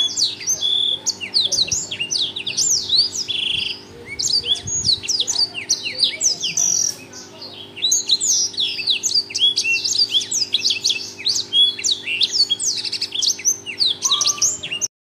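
Black-throated canary (blackthroat) singing loudly in a fast, continuous run of high chirps and trills, with brief pauses about four and seven seconds in. A faint steady hum lies underneath, and the song cuts off suddenly near the end.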